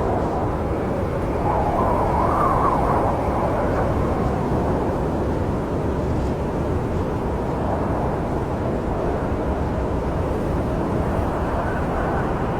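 Snowstorm wind: a steady low rushing noise, swelling briefly about two seconds in.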